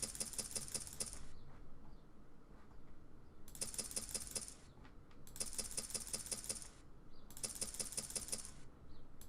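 Four bursts of rapid clicking and clatter, each about a second long, with short pauses between them, as bets are placed on an online roulette table.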